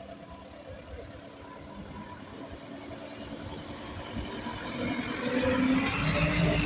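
Bus engine running and drawing closer, growing steadily louder and loudest near the end.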